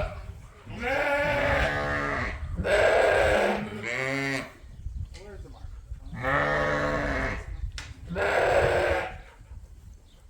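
Sheep bleating: about five long calls, some running into each other, with short pauses between them, then quieter near the end.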